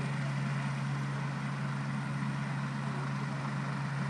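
Helicopter running on the ground with rotors turning, a steady engine hum.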